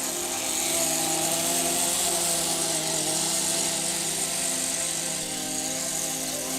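Kyosho GX15 two-stroke nitro glow engine of an RC snowcat running at high revs with a steady pitch, getting louder about a second in.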